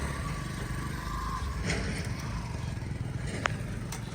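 Diesel engine of heavy machinery running steadily with a low rumble, and a single sharp click about three and a half seconds in.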